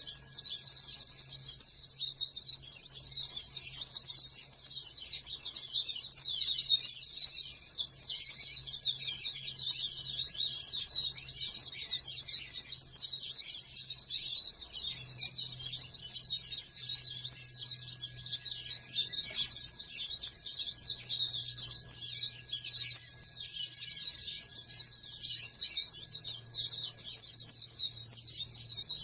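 White-eye (pleci) songbird singing a fast, unbroken high twittering song of rapid chirps.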